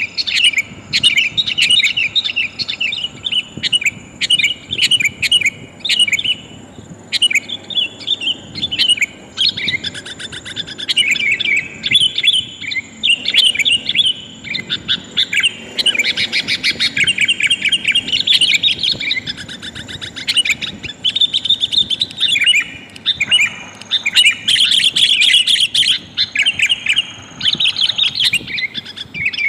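Sooty-headed bulbuls calling: rapid, bright chirping phrases in quick succession with only brief pauses. The uploader presents the calls as a female calling to males.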